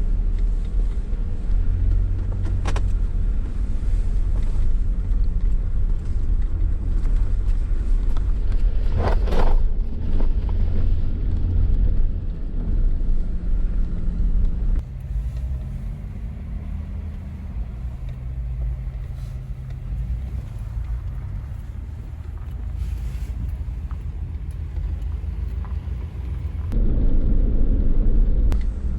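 Jeep driving on a snowy road: a low, steady rumble of engine and tyres, with the engine note shifting as it goes. It eases off about halfway through and grows louder again near the end.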